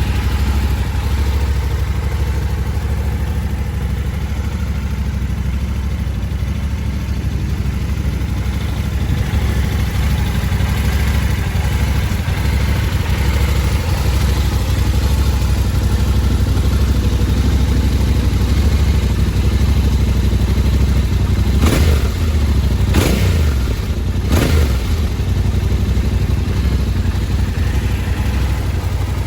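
2022 Yamaha Ténéré 700's 689 cc parallel-twin engine, fitted with a Power Box exhaust header, idling steadily. About three-quarters of the way through it is blipped three times in quick succession, the revs jumping and falling straight back to idle.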